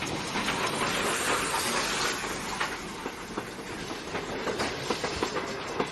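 Sound of a train running: a steady rushing noise studded with many small rapid clicks, a little louder in the first two seconds.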